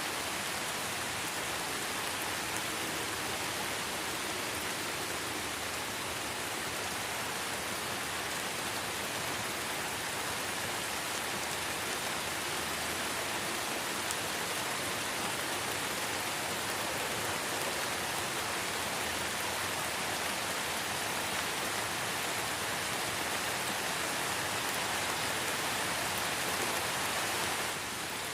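Light rain falling steadily in a forest, an even hiss of many drops on leaves and ground. The level dips slightly near the end.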